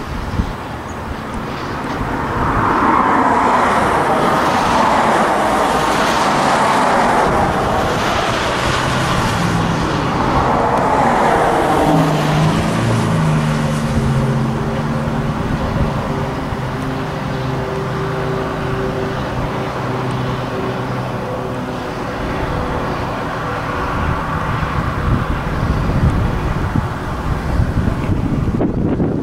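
A diesel-hauled passenger train passing close by: the Southern Pacific diesel switcher and its cars rolling on the track with a loud rush that slides lower in pitch as the front goes by. About halfway through, a steady engine drone is heard as the middle of the train passes, and near the end, as the caboose passes, there is a clatter of wheel clicks.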